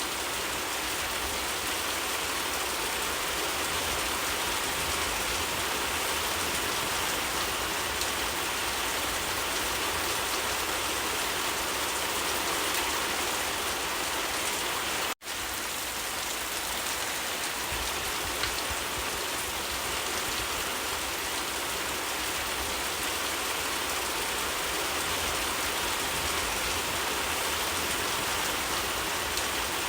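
Steady, even rain falling, a constant hiss of drops. About halfway through it cuts out for an instant and comes straight back.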